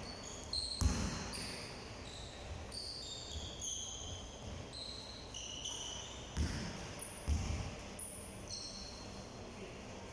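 Basketball practice on a hard court: a ball thuds on the floor a few times amid many short, high squeaks of shoes.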